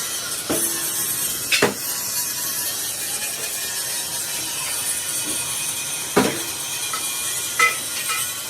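Steady metalworking machinery noise, with a few sharp metal knocks scattered through it.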